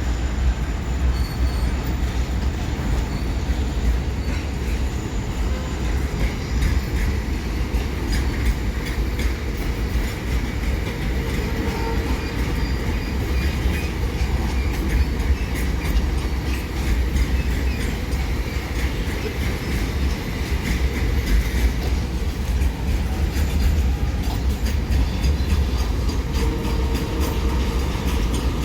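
Container freight train rolling past: a steady heavy rumble of wagon wheels on the rails, with clickety-clack over the rail joints and faint wheel squeal in the middle.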